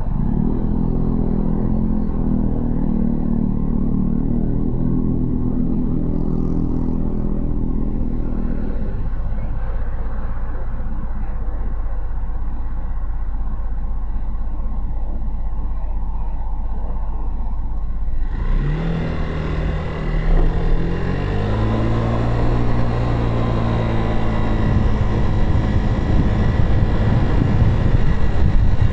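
Motorcycle engine running steadily at low revs, dropping back to a quieter stretch about a third of the way in. About two-thirds through it opens up and pulls away, its pitch climbing in steps through the gears as wind and road noise rise sharply.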